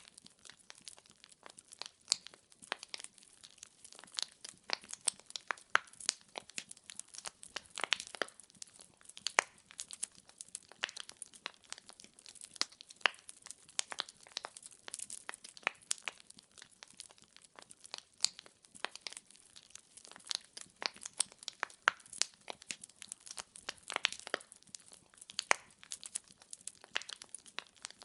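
Wood fire in a fireplace crackling: many sharp irregular pops and snaps of burning logs over a faint low hiss of the flames.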